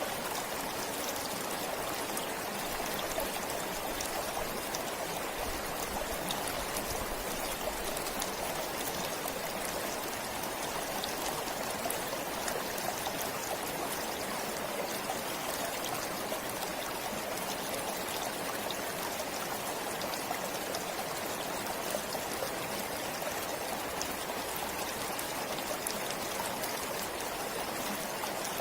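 Forest stream flowing steadily, an even rush of water with fine trickling.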